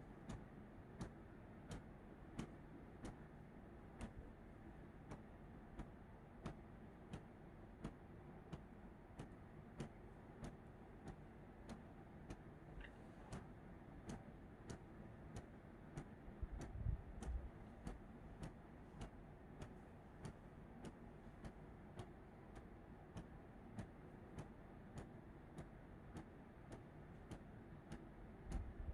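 A clock ticking steadily, about one and a half ticks a second, in a quiet room. A brief low rumble comes about two-thirds of the way through.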